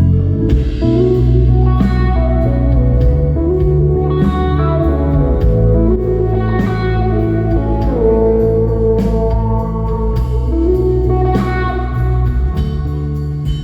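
Band playing an instrumental passage of a rock song: sustained, singing lead guitar notes over bass and drums. The band stops right at the end.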